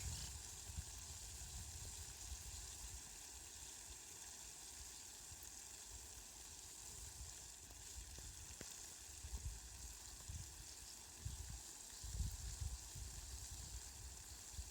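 Steady rain falling, an even hiss, with low rumbles coming and going underneath.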